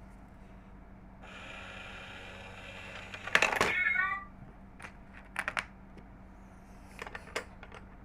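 Battery-powered coin-stealing cat money box toy at work: its small motor whirs for about two seconds, then a sharp clatter as the cat grabs the coin with a short electronic meow, followed by a few light mechanical clicks as it settles back.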